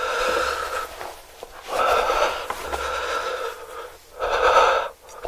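A person eating close to the microphone makes three long, airy sucking sounds through the mouth, with small wet clicks between them.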